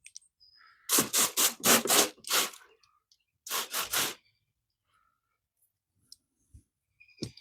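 Brush scrubbing carpet cleaner into car carpet: a run of about five quick strokes, then a shorter run of two or three strokes a second later.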